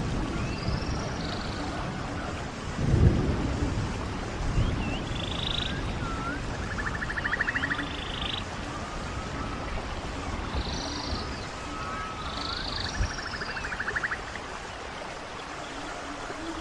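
Running water of a stream with birds calling over it: repeated short chirps and whistles, and twice a buzzy, rattling trill of about a second. A low rushing swell about three seconds in.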